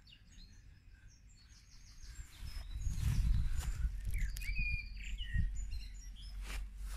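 Small birds chirping in short, high calls. From about two and a half seconds in, a louder low rumble on the microphone joins them, with a single sharp click near the end.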